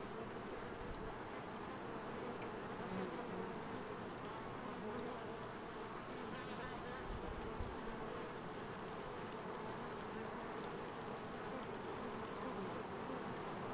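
Swarm of honeybees buzzing steadily.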